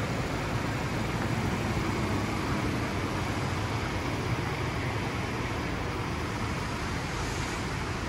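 Ford Ranger's 2.0-litre twin-turbo four-cylinder diesel running steadily at idle.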